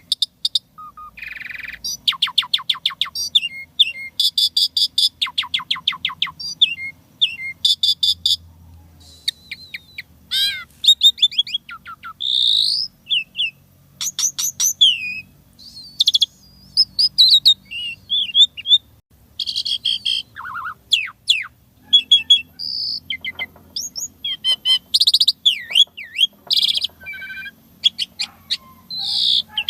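Javan pied starling (jalak suren) singing a long, varied song. Fast runs of clipped repeated notes alternate with whistled rising and falling glides and short chatters, with calls of other birds worked in as mimicry.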